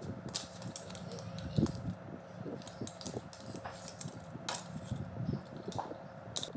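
Light metallic clinks and taps, as of metal parts and hand tools being handled, scattered irregularly over a steady low hum.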